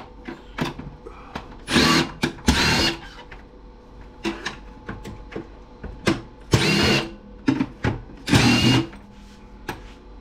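A power drill-driver runs in short bursts, about four longer spins and several brief blips, backing screws out of a stereo's case. Small clicks and knocks of the tool and parts come between the bursts.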